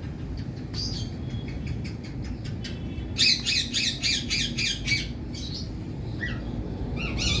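Indian parrot squawking: one harsh call about a second in, then a rapid run of shrill squawks for about two seconds, followed by a few scattered calls, over a steady low background noise.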